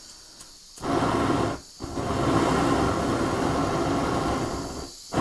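Handheld gas jet torch firing to light the fireplace: a steady rush of flame noise that starts about a second in, cuts out briefly, then runs steadily until just before the end.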